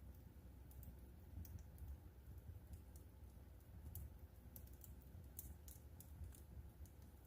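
Wood fire crackling in a fireplace: faint, irregular sharp pops and snaps over a low steady rumble.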